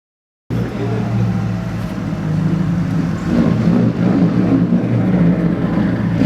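Engine of a highly tuned widebody Subaru running steadily at idle, a loud low exhaust drone that starts abruptly about half a second in.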